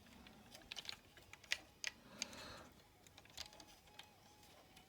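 Faint, sparse clicks and taps of a plastic transforming-robot toy dump truck being handled: about six sharp ticks spread irregularly over a few seconds.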